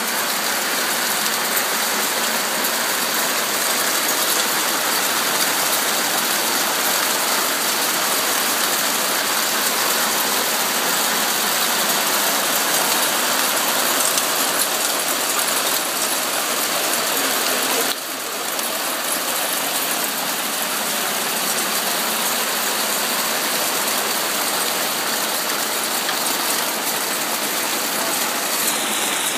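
Hail falling hard: a dense, steady patter of countless small stones striking, with a brief dip in level about eighteen seconds in.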